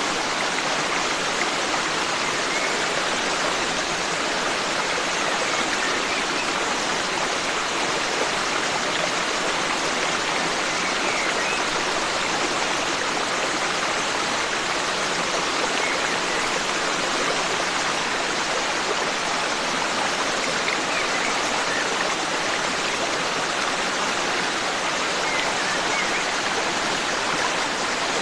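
Forest stream flowing in a steady, unbroken rush of water, with a few faint bird chirps now and then.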